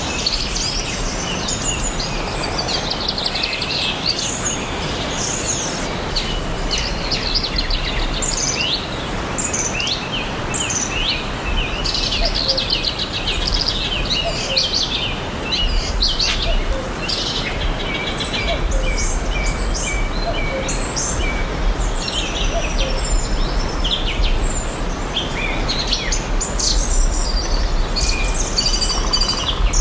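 Several songbirds chirping and trilling over a steady background hiss, with a low rumble that grows stronger about halfway through.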